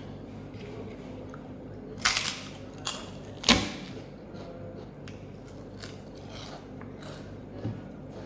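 A person eating, chewing and crunching food close to the microphone, with a few sharp, louder crunches about two and three and a half seconds in and smaller clicks afterwards.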